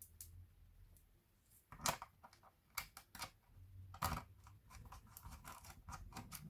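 Irregular sharp clicks and light taps of laptop plastic parts being handled, with a quicker run of small ticks in the last second and a half.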